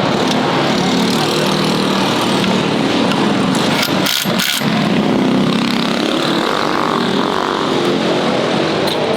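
Mini bike engines running and revving, with a brief drop in the sound about four seconds in.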